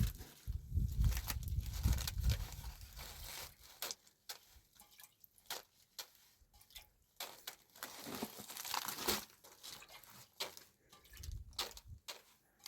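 Irregular rustling, crinkling and tearing sounds of something being handled by hand, with low thumps in the first couple of seconds and again near the end.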